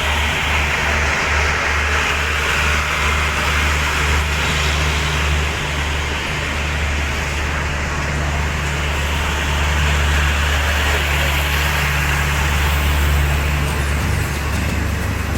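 Diesel-hauled passenger train pulling out and running: a steady low engine drone, throbbing for the first few seconds and then even, over the hiss and rattle of the wheels on the rails.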